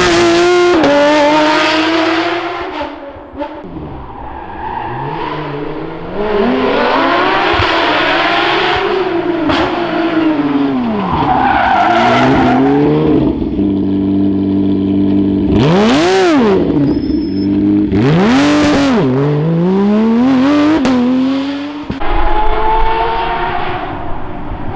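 Porsche rally car engines at full attack, revving up and down through gear changes. Around the middle, cars pass close by, twice in quick succession, their engine note rising then dropping sharply.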